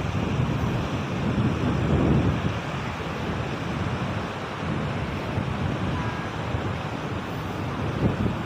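Wind buffeting the microphone: a steady, gusting low rumble with a hiss above it.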